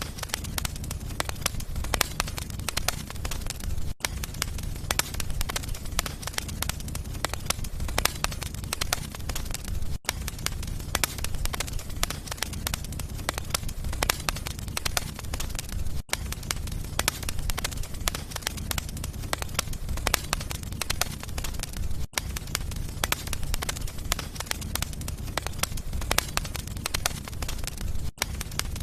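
Wood fire crackling and popping in a fireplace: dense irregular crackles over a steady low rumble, broken by a brief dropout about every six seconds.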